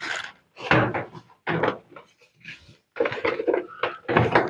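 Repeated knocks and clatter of washing-machine cabinet parts being handled and set down during disassembly, in several separate bursts.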